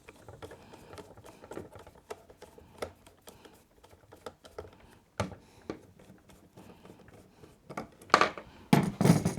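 Small scattered clicks and taps of a screwdriver working a screw out of a fencing reel's housing, with a louder clatter of the reel's parts being handled near the end.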